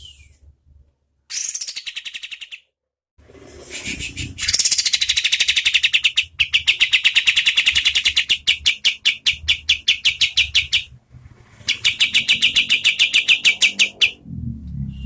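A kapas tembak bulbul singing its rapid, rattling 'shooting' song. Fast runs of repeated notes, about eight to ten a second, come in several phrases with short pauses between them; the longest run lasts about four seconds in the middle.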